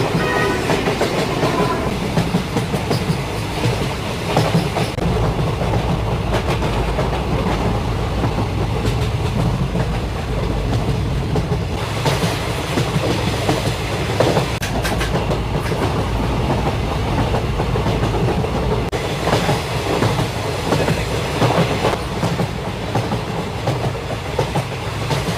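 Local commuter train running on the rails. A steady low rumble is broken by irregular clacks of the wheels over rail joints.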